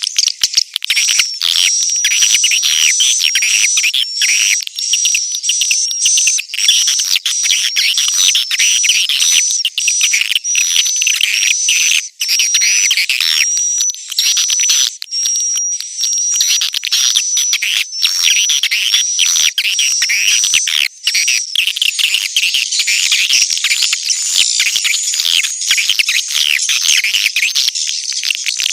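Recorded calls of edible-nest swiftlets: a dense, continuous chorus of fast twittering chirps, with a steady chain of short, high repeated notes over it until about two-thirds of the way through. It is a swiftlet lure call of the kind played to draw the birds into a nesting house.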